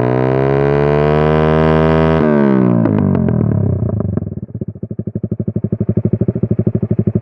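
Motorcycle running through an aftermarket exhaust, held at high revs and rising slightly. About two seconds in the throttle is closed: the revs fall away with a run of crackling pops, then settle into an idle of rapid, even exhaust beats.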